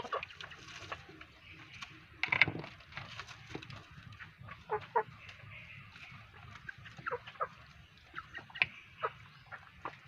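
Bangkok rooster making short, scattered clucks, with light taps and one louder noise about two and a half seconds in.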